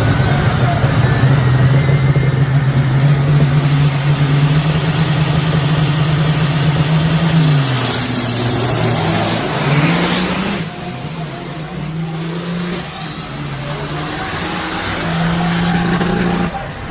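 Heavy truck engine running hard at a steady high pitch. About eight seconds in the revs drop and climb again with a rushing sweep, then the engine runs somewhat quieter with its pitch rising and falling.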